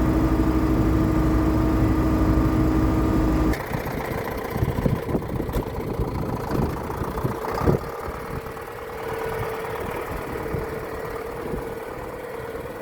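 Tractor engine running steadily. About three and a half seconds in, the sound drops suddenly to a quieter, lower running with scattered knocks and rattles.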